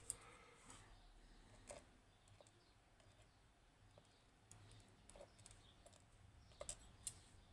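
Faint, scattered clicks of small metal lock pins being handled and set down while the lock is taken apart, about half a dozen light ticks over several seconds.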